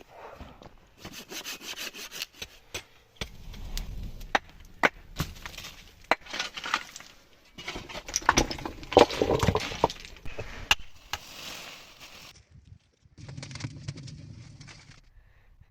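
Wood being worked by hand: stretches of scraping, sawing-like noise broken by many sharp cracks and knocks, in several short segments that start and stop abruptly.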